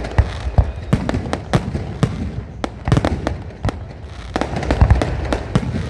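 Fireworks display: a rapid, irregular string of sharp bangs and crackles, with deeper booms about halfway through and again near the end.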